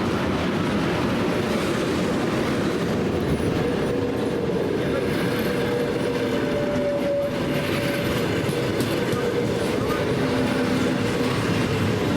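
A train moving on station tracks: a steady rumble of wheels on rails with a faint held humming tone over it.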